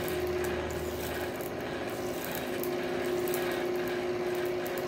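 Steady mechanical hum with faint crackling from hot coil-spring steel being dipped in quench oil as its sizzle dies away; a lower hum under it drops out about a second in.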